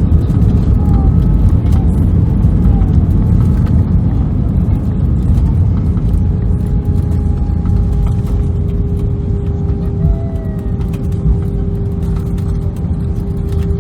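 Cabin noise of an Airbus A319 on the ground just after landing: a loud, steady low rumble of the engines and rolling wheels that eases slightly, with a steady hum joining about six seconds in.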